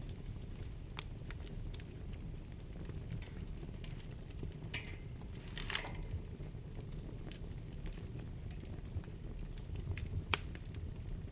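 Wood fire burning in a fireplace: a steady low rumble of the flames with scattered sharp crackles and pops, a short hiss about halfway through, and a louder pop near the end.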